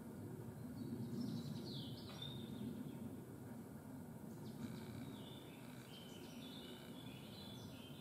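Small birds chirping and singing over a low steady rumble: a short phrase of high notes about a second in, and a longer run of chirps from about halfway.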